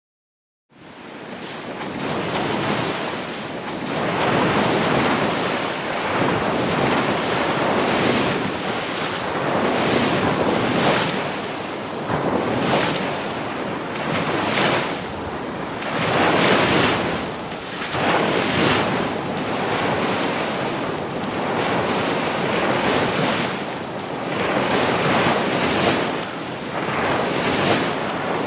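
Ocean surf: waves breaking one after another in a continuous rushing wash that swells and eases every two seconds or so. It starts from silence less than a second in, fading up quickly.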